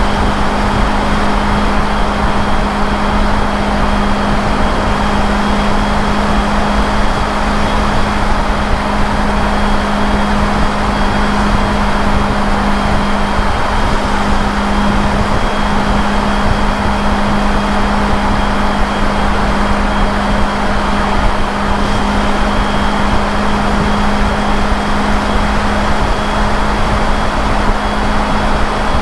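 Motorcycle engine running at a steady cruising speed, one unchanging drone, under a loud even rush of wind and road noise.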